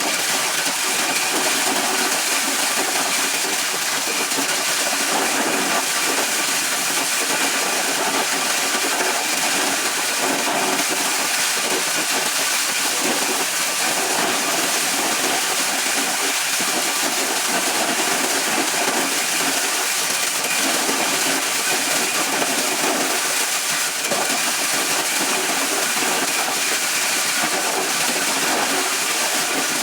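A machine running steadily: a loud, even rushing hiss with a few faint steady tones, unchanging throughout.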